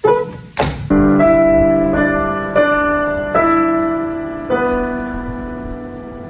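Piano music: slow chords struck about once a second, each ringing on and fading. It comes in about a second in, after a couple of short noisy sounds.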